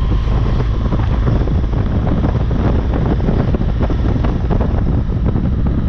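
Heavy wind buffeting the microphone of a moving motorcycle, with the BMW R1200GS's boxer-twin engine running underneath.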